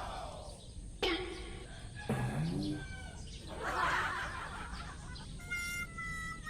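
A quick run of edited-in comic sound effects: several short, sudden sounds one after another, some with a rising or falling pitch. Held musical notes begin about five seconds in.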